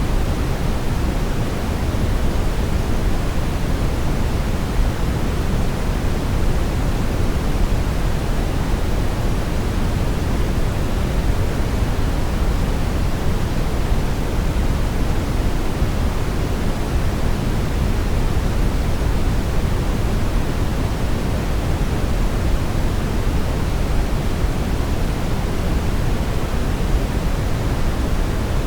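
Brown noise: a steady, featureless hiss-rumble, heaviest in the low end and fading toward the top, with no changes or events.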